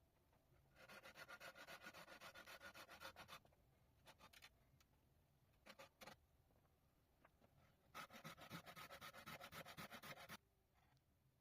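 Two spells of fast, rhythmic rasping strokes, each lasting two to three seconds, with a few short scrapes in between: something being rubbed or rasped back and forth over a hard surface.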